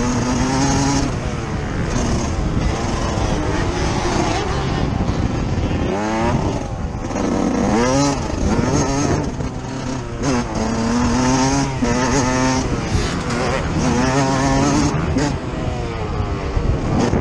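Yamaha YZ125 single-cylinder two-stroke motocross engine, recorded on board, revving up and dropping back again and again as the rider works the throttle and gears, over a rumble of wind and track noise.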